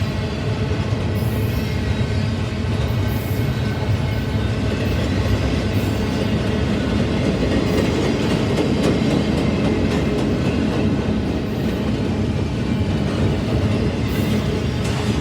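Mixed freight train rolling past at steady speed: a continuous rumble of the cars with steel wheels clicking over rail joints.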